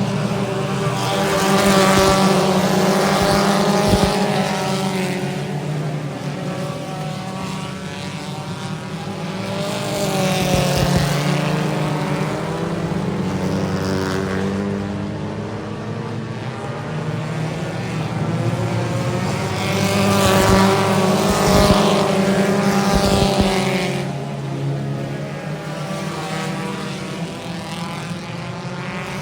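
Race car engines running at speed around a dirt oval, the sound swelling and fading as the cars pass, three times, about every ten seconds.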